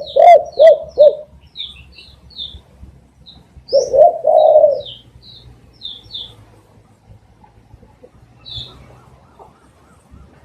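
Spotted dove cooing: a quick run of three coos at the start, then one longer coo about four seconds in. Small birds chirp with short high notes throughout.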